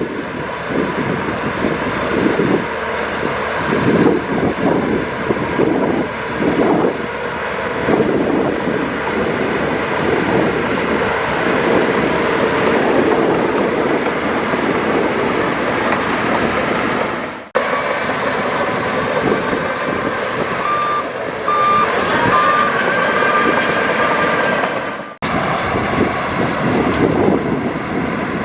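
Diesel engines of a dump truck and bulldozer running under load, with a reversing beeper sounding several short beeps about three-quarters of the way in. The sound breaks off sharply twice, at cuts in the footage.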